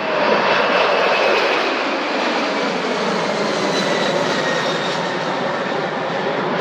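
Boeing 747-400's four jet engines taking off: a loud, steady rush of engine noise with a faint whine slowly falling in pitch.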